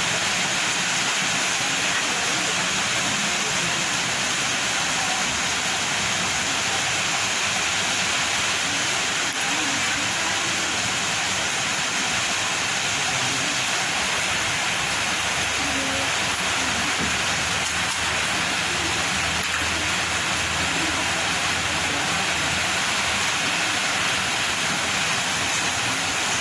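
Very heavy rain falling with strong wind: a steady, unbroken rush of noise that neither rises nor falls.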